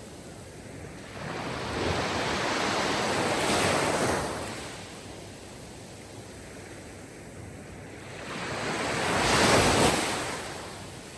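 Sea waves washing onto a shore, two swells of surf about five seconds apart, each rising and then ebbing away.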